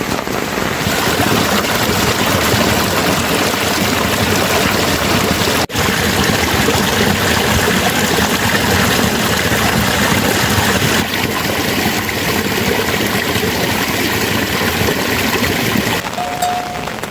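Steady, loud rushing of water in the rain, an even wash of noise with a very brief break about six seconds in.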